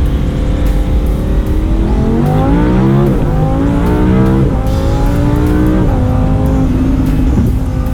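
Race car engine accelerating hard through the gears: the pitch climbs, drops sharply at upshifts about three and about five seconds in and again near six, then holds steady.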